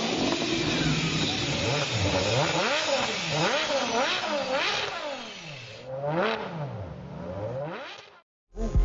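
Car engine revving over and over, its pitch climbing and dropping repeatedly, then cutting off suddenly near the end.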